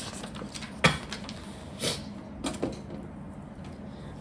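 Plastic Lego pieces handled and clicked together: a few sharp clicks and taps, the loudest just under a second in, with softer ones around two seconds.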